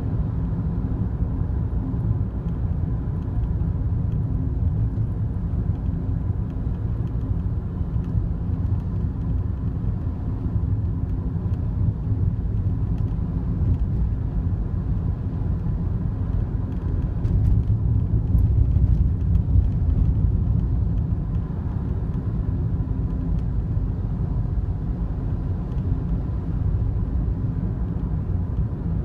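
Cabin noise of a Daihatsu Wake while driving: a steady low road and engine rumble, with faint scattered clicks of a rattle from around the passenger-side drink holder, an abnormal noise that appeared a month after delivery.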